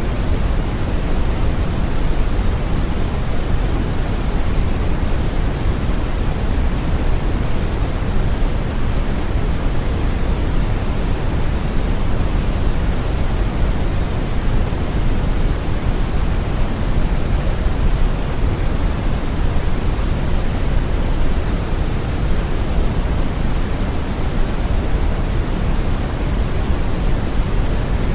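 Brown noise: a steady, even rushing hiss, strongest in the deep lows and falling away toward the highs, with no change throughout.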